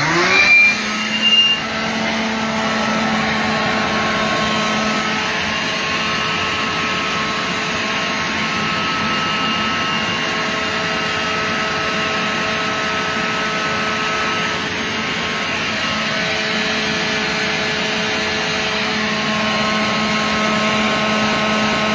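Homemade bucket shop vac, a blender motor spinning a centrifugal impeller salvaged from an old vacuum cleaner, switched on and spinning up within the first second, then running steadily with a whine.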